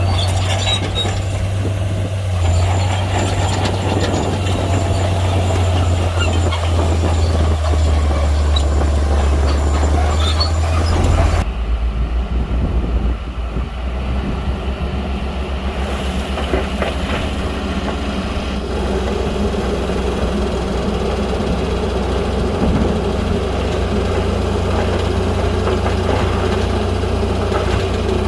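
Heavy crawler bulldozer's diesel engine running hard, with metallic clatter over its low drone. About eleven seconds in, the sound changes abruptly to a lower, steadier engine drone with little clatter.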